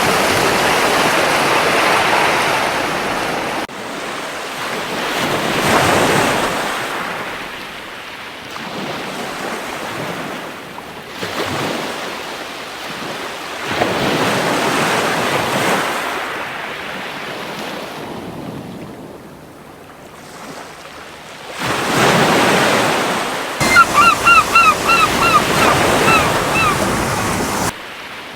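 Surf washing onto a beach in slow swells, each wave rising and falling away, with a few sudden drops in level between them. Near the end a gull gives a quick run of about a dozen short, high cries, the loudest sound here.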